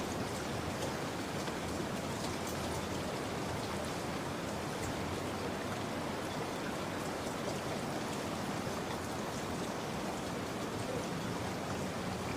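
Steady rain falling, with the fine patter of individual drops.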